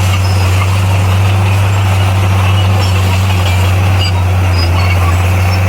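Bulldozer's diesel engine running steadily with a deep, even hum and no change in speed.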